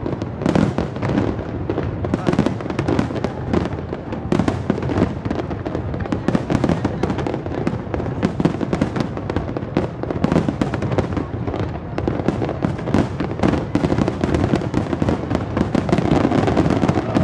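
Aerial fireworks display: a dense barrage of shell bursts, many a second, going on without a break.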